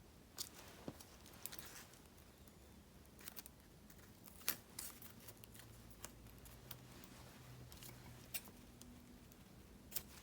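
Faint paper-crafting sounds: scissors snipping and paper stickers being handled, heard as scattered sharp ticks and a few brief rustles.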